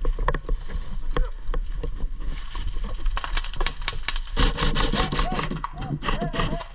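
Brush rustling and scraping with a run of sharp clicks and cracks, densest about halfway through, in an airsoft exchange of fire. A voice calls out in the second half.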